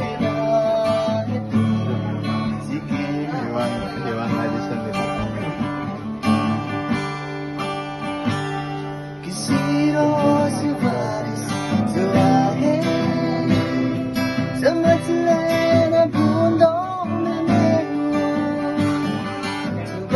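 A song with strummed acoustic guitar and a singing voice, playing continuously.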